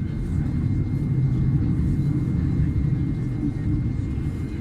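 Madrid Metro Line 6 train running through the tunnel between stations, heard from inside the carriage: a steady low rumble of wheels and running gear, with a faint thin whine above it.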